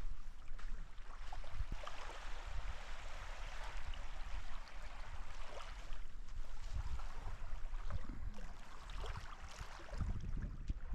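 Wind rumbling on the microphone over a steady rushing hiss of water; the low rumble grows stronger near the end.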